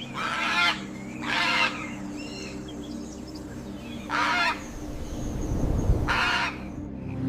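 Four loud bird calls, each about half a second long, over a steady music drone.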